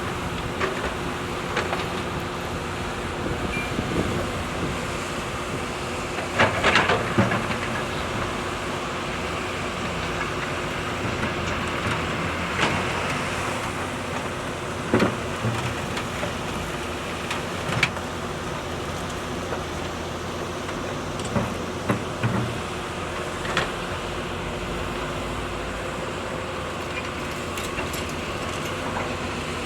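Heavy machinery engine running steadily, with scattered knocks and clanks on top. The loudest is a cluster of knocks about seven seconds in.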